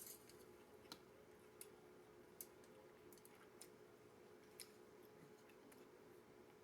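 Near silence: quiet room tone with a faint steady hum and a few faint, scattered clicks.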